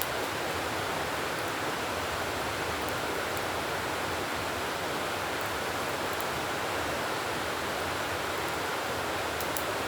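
Campfire burning, with faint sharp crackles every second or two over a steady rushing noise.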